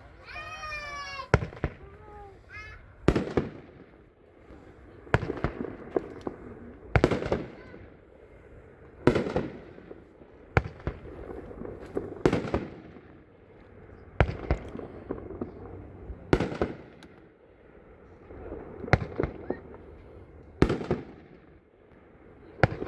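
Consumer firework cake firing a series of single shots, about a dozen sharp bangs spaced roughly two seconds apart, each followed by a short crackle.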